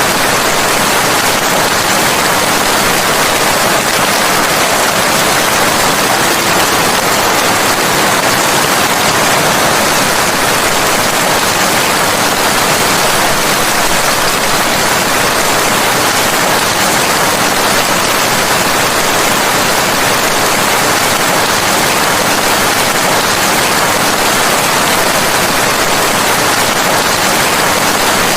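Steady rain, a dense even hiss with no separate drops or thunder standing out.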